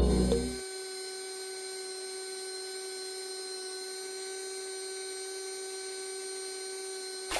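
Small DC motor of a homemade water pump running at a steady speed, a constant high-pitched hum.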